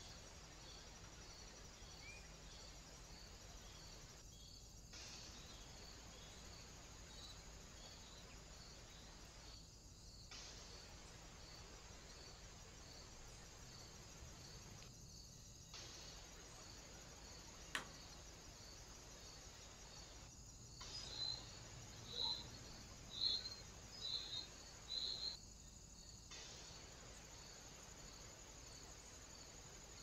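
Faint steady hiss of a trail camera's microphone with a high ticking about twice a second, dropping out briefly every few seconds where clips are joined. One sharp click, then about two-thirds of the way in, five short high bird calls, roughly one a second, the loudest sounds here.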